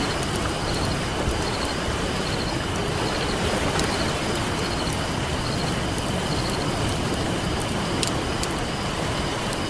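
Ocean surf washing in a steady rush, with a campfire crackling over it and giving an occasional sharp pop, one clear pop near the end.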